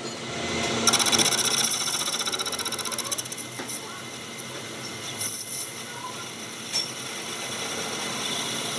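A workshop power tool running with a fast, even rattle, loudest for about two seconds near the start, then a steadier run with a couple of sharp clicks.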